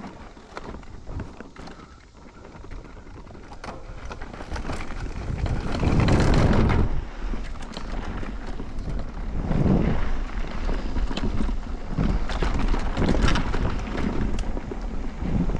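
Wind buffeting the microphone and the clatter of a mountain bike, an e-MTB, ridden over a rough dirt trail. It builds as speed picks up after about two seconds, with the loudest gusts around six seconds in.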